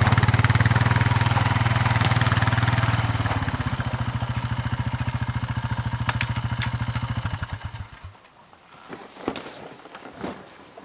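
Four-wheeler (ATV) engine running, its firing beat slowing from about three and a half seconds in until it cuts off about eight seconds in. A few faint knocks follow.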